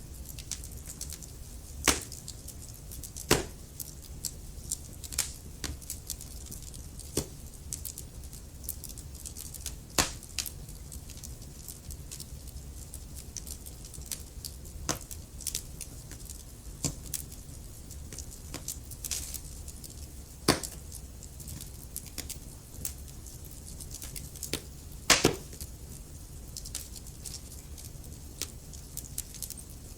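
Wood fire crackling in a fireplace: a constant scatter of small irregular snaps with a few louder pops, over a steady low rumble of the burning fire.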